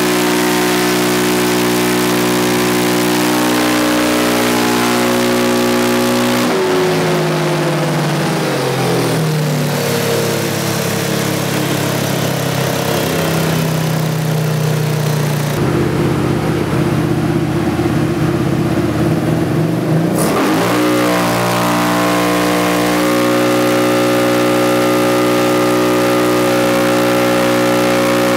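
Polaris RZR 570's single-cylinder engine running through an HMF Swamp Series full-system exhaust on a dyno. It is held at steady high revs, drops off about six seconds in and runs lower, then revs back up at about twenty seconds and holds high again.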